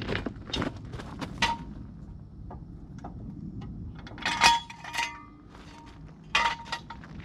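Light metallic clinking and shuffling steps, with two louder clusters of clinks about four and a half and six and a half seconds in. No engine is running.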